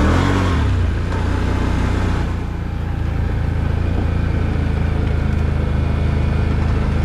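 Off-road vehicle engine running steadily as it drives slowly along a dirt trail. A burst of rushing, scraping noise lasts about the first two seconds.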